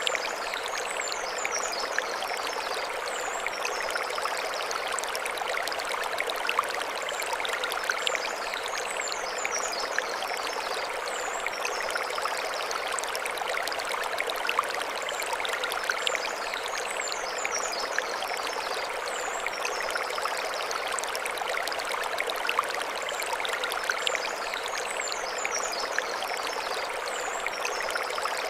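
Mountain stream flowing over stones, a steady rushing and splashing. Over it, a high twittering figure comes in pairs about every seven to eight seconds.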